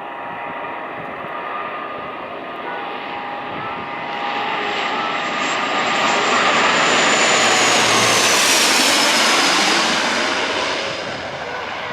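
An airliner landing passes low overhead. The engine noise builds, peaks about two-thirds of the way in and then fades, and a high whine drops in pitch as the plane goes past.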